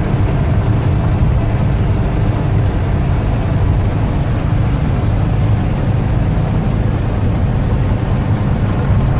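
Volkswagen Type 2 Westfalia camper van running, heard from inside: a steady low engine rumble mixed with road noise.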